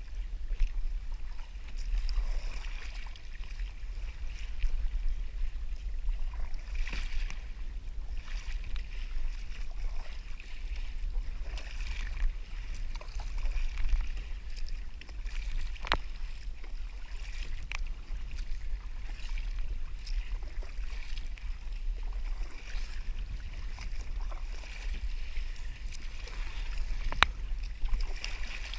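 Water sloshing and lapping against a kayak's hull, over a steady low wind rumble on the microphone, with two sharp knocks, one about halfway through and one near the end.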